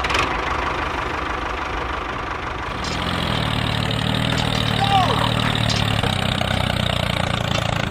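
Mini tractor's small motor running steadily, with a deeper hum joining about three seconds in.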